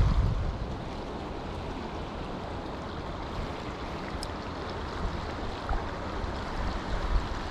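Creek water running steadily, a constant rushing, with a brief low rumble of wind on the microphone at the start.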